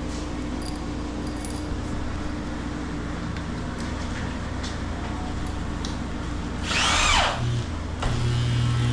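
Power drill running, with a brief whine that falls sharply in pitch about seven seconds in.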